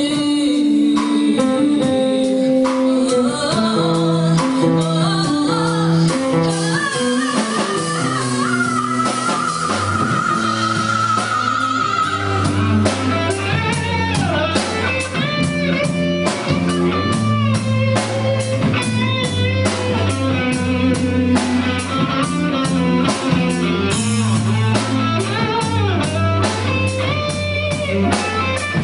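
Live band music: guitar lead over steady bass notes and a regular drum beat, in a passage with little or no singing.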